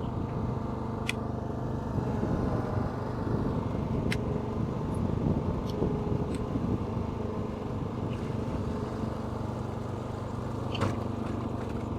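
Lawn mower engine running steadily as it works the rope that lifts and drops a well-digging tool, with a few sharp knocks.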